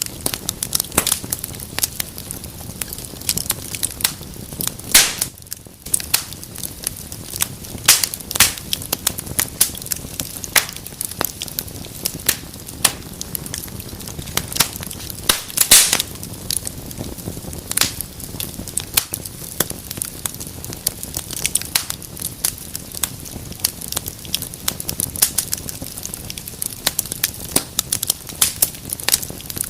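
Wood fire crackling in a fireplace: a steady hiss of burning with many irregular sharp pops and snaps, a few louder ones about five seconds in and around the middle.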